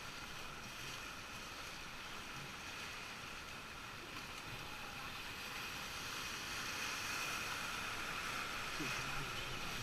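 Whitewater river rapids rushing around a raft, a steady hiss of moving water that grows a little louder in the second half.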